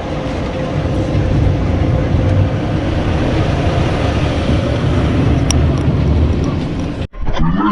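Automatic car wash machinery running around the car, heard from inside the cabin: a steady rushing roar with a deep rumble. It cuts off abruptly near the end.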